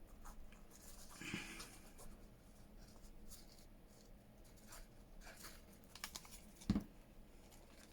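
Faint handling of paper craft materials: soft rustles and scrapes with a few light clicks, and one sharper tap about two-thirds of the way through.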